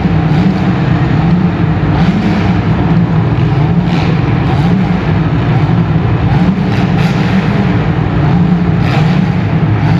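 Compact cars' engines revving hard, several at once, the pitch rising and falling as they are pushed, with a few short sharp knocks.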